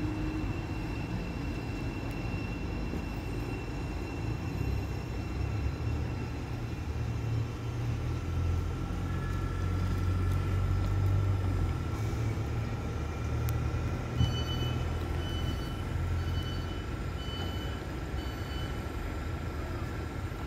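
Low rumble of trains at a station platform, swelling midway, with a steady whine joining about eight seconds in. A single sharp knock sounds about fourteen seconds in, followed by a run of about six short, evenly spaced high beeps.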